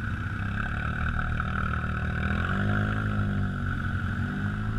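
ATV engine running under way, its pitch climbing about halfway through as the throttle opens and then easing back.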